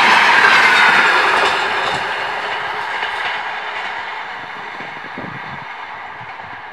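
Passenger train's wheels clattering on the rails as its last coach passes close by, then fading steadily as the train runs away down the line.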